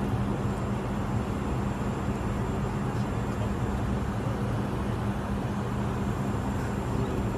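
Steady drone of an airliner cabin in flight: engine and airflow noise with a constant low hum, unchanging throughout.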